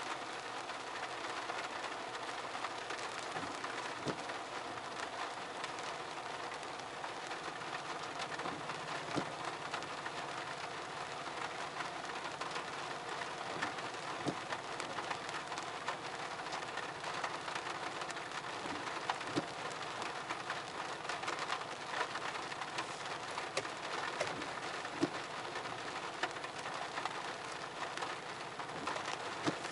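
Steady rain, with many scattered sharp drips and ticks over an even hiss.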